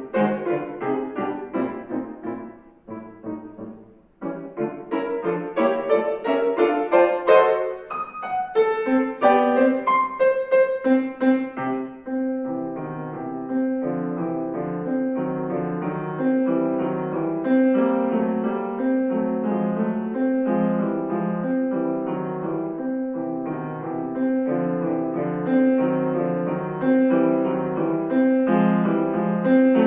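Piano playing a classical piece. A phrase dies away about four seconds in, then a fast, loud passage climbs into the high register. From about twelve seconds it settles into a softer, even repeating accompaniment figure under a held melody note.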